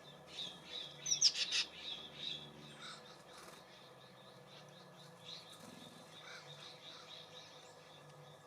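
Small songbirds chirping and twittering, with the loudest run of sharp chirps about a second in, then scattered softer chirps.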